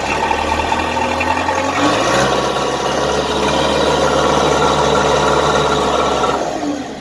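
Old 480 backhoe's engine idling, with its horn sounding about two seconds in as one steady tone held for roughly four seconds before it stops. The horn is being tested after the battery terminals were cleaned of corrosion, and it works.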